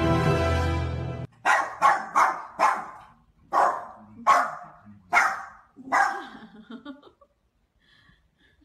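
Small dog barking about eight times in short sharp barks, in quick runs with brief gaps, then a few faint yips. Music cuts off about a second in, just before the barking starts.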